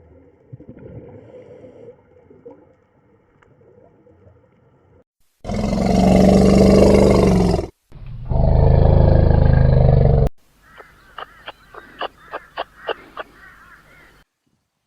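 Two loud, deep animal roars of about two seconds each, one straight after the other, followed by a quick run of about nine short, sharp calls.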